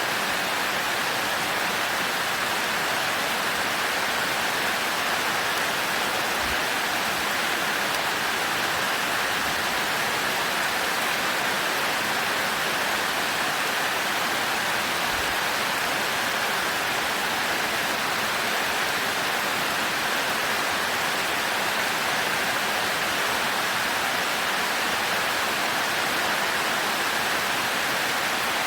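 Heavy rain falling steadily, an even hiss with no breaks and no thunder.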